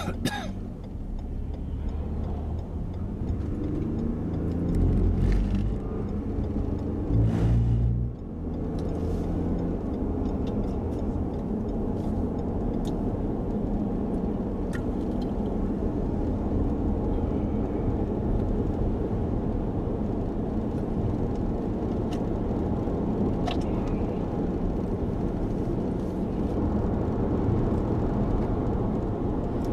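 Steady road and engine noise of a car driving, heard from inside the cabin, with a couple of louder low rumbles about five and eight seconds in.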